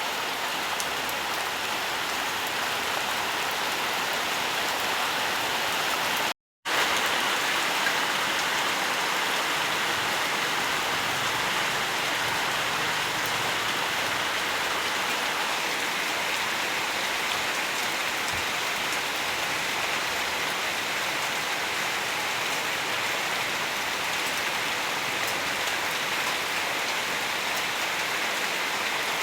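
Steady, dense rainfall, an even hiss of many drops. The sound cuts out completely for a fraction of a second about six seconds in, then resumes unchanged.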